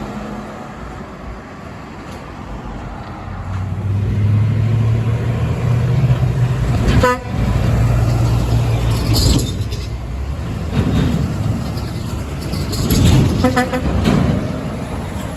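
A passing truck's engine drone builds and fades, with two short horn toots: one about seven seconds in and another near the end.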